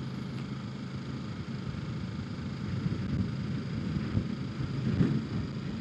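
Kawasaki Ninja 650's parallel-twin engine running steadily while riding, a low hum under wind rumble on the helmet microphone, swelling slightly about three to five seconds in.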